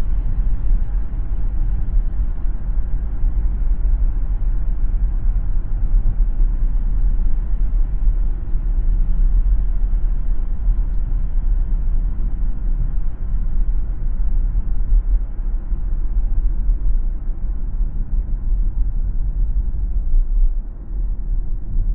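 Car driving on a city road: a steady low rumble of tyre and engine noise, with a brief dip in loudness near the end.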